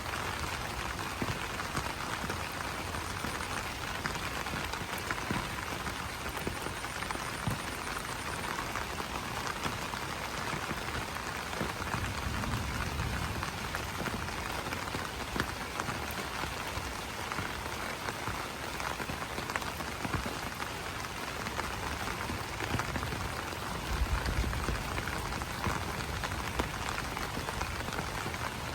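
Steady rain pattering on broad banana leaves, a dense mass of small drop ticks, with a low rumble swelling briefly midway and again near the end.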